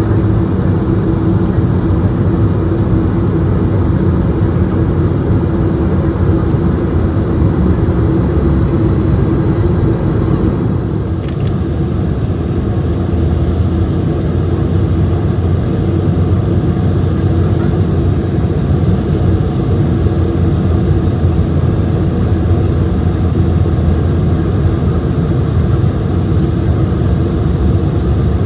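Steady cabin noise inside an Airbus A220-100 under way: its Pratt & Whitney geared turbofans and the airflow give a constant deep rumble with a steady hum. A brief click comes about eleven seconds in.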